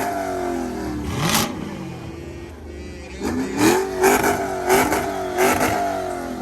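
Car engine revved repeatedly: one rising rev about a second in, then a string of quick blips of the throttle in the second half.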